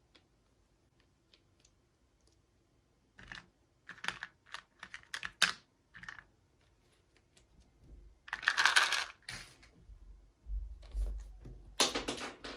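Small hard plastic toy pieces and packaging being handled: a run of light clicks and taps, then two longer rustling scrapes about a second each.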